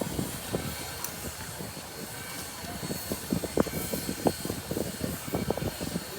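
A train running, with a steady rumble and hiss under irregular short knocks and clicks that come thicker from about three seconds in.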